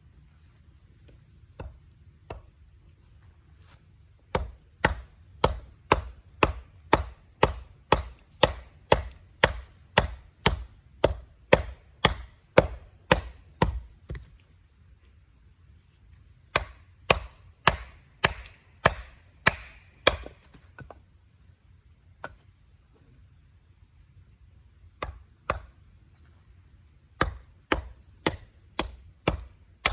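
Firewood being chopped: sharp, evenly paced strikes about two a second, in three runs with short pauses between them.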